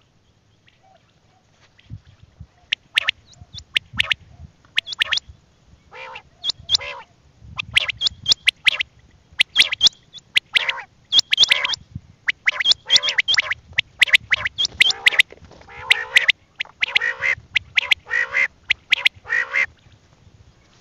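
Quail (bateer) calling: many short, harsh calls in quick runs, starting about two seconds in and going on to near the end, with sharp high clicks among them.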